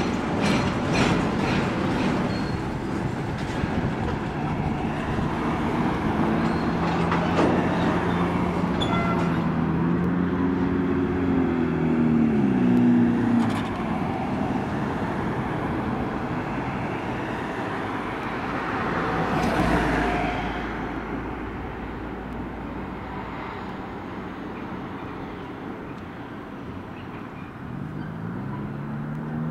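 Freight train cars rolling past, with the wheels clicking over rail joints at first and the rumble fading later on. An engine hum runs under it for several seconds and drops in pitch about twelve seconds in.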